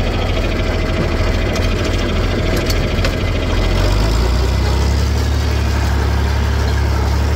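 John Deere 4020 tractor engine running steadily, its low note growing louder about halfway through.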